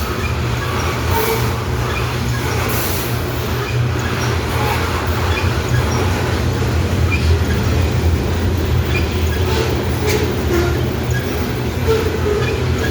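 Freight train of grain hopper cars rolling past, steel wheels on rail making a steady heavy rumble, with scattered light clicks and brief faint wheel squeals.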